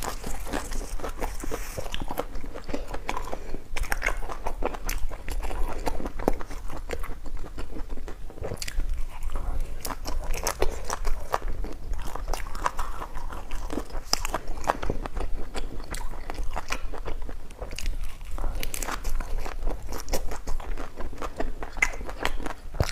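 A person biting and chewing crunchy food: dense, irregular crunching clicks that run without a break.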